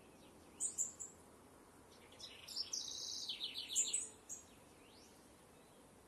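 Wild songbirds singing. A few short, high chirps come just before one second in, and again near four seconds. Between about two and four and a half seconds there is a rapid trill of quick falling notes. A faint, steady outdoor hiss lies underneath.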